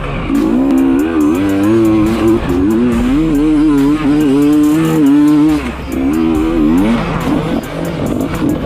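Dirt bike engine revving up and down over and over, with background music underneath.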